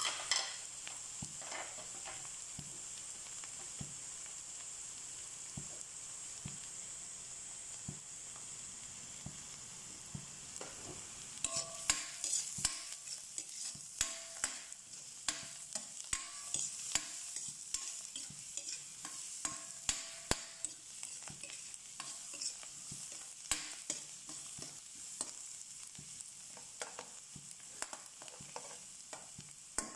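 Chopped onions and minced garlic sizzling in a stainless steel wok, a steady hiss. From about a third of the way in, a metal spatula stirs and scrapes against the wok, with many quick clicks and taps.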